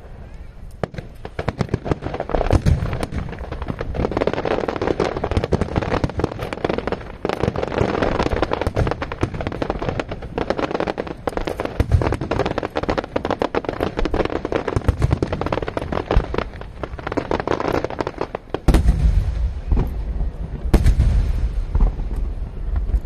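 Aerial fireworks going off: a dense stream of crackling pops and bangs, with heavier, deeper booms in the last few seconds.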